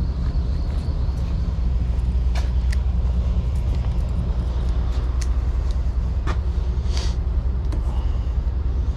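A vehicle engine idling with a steady low rumble, with a few short metallic clicks and taps of hand tools being worked.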